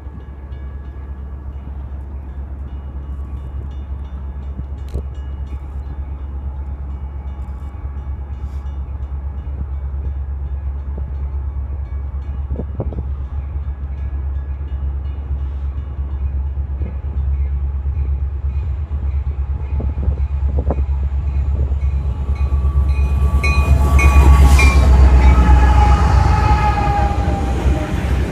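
A train approaching and passing, its heavy low rumble slowly growing louder. Near the end the locomotive's horn sounds loudly, its pitch sagging slightly as it goes by.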